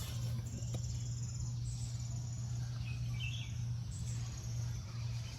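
Insects trilling steadily at a high pitch over a steady low hum, with a brief chirp about three seconds in.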